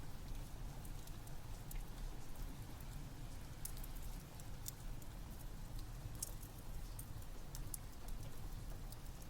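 Steady rain with a low rumble underneath, and a wood fire's sharp crackles and pops scattered throughout.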